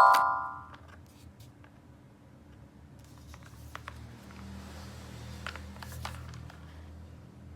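A bright chime dies away in the first second. Then come soft handling sounds of toys and packaging with a few light clicks.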